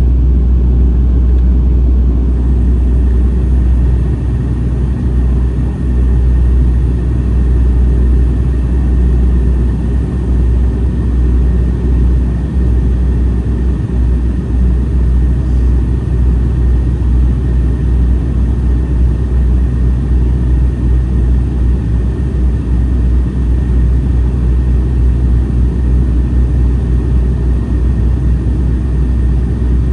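Airliner cabin noise in flight on approach: a loud, steady low rumble of engines and airflow, with a faint steady whine above it.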